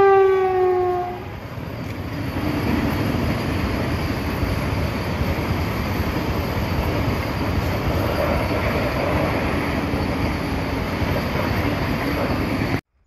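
Train horn sounding and ending about a second in, its pitch falling slightly, followed by the steady rumble of the train running past, which cuts off abruptly near the end.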